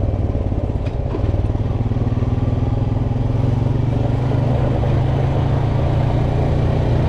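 Off-road vehicle engine running steadily while being ridden along a dirt trail.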